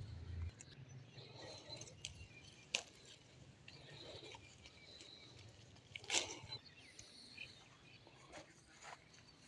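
Quiet outdoor background with scattered clicks and rustles, a sharp click about three seconds in and a louder one about six seconds in, and faint high chirps.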